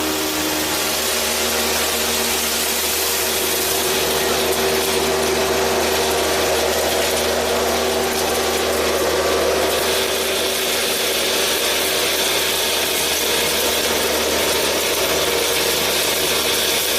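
Homemade miniature oil expeller running steadily: its small electric motor hums while the gears rattle. A brighter hiss joins about ten seconds in.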